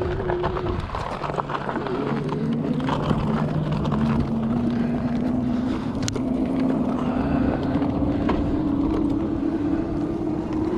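Juiced City Scrambler e-bike's hub motor whining under power, its pitch rising slowly as the bike picks up speed, over a rush of wind and road noise.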